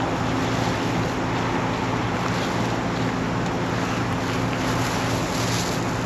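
A 1966 Ford F-250's engine drones steadily inside the cab while driving, under a constant rush of wind and road noise.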